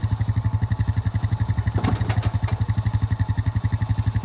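A small engine idling with a steady, even low chug. There is a brief clatter about two seconds in.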